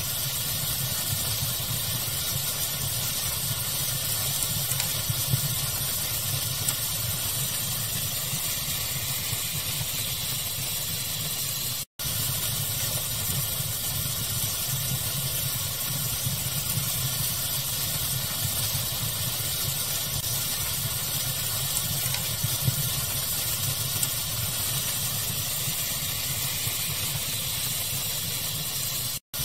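Steady pink-noise hiss with a low rumble, mixed with a few faint crackles from a fire. The sound cuts out for an instant twice, about twelve seconds in and near the end.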